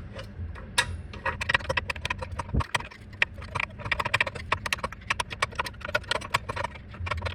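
Screwdriver turning the star-wheel adjuster of a BMW E46 rear parking brake, making a rapid, uneven run of metal clicks as the gear is stepped round to spread the brake shoes and take up slack.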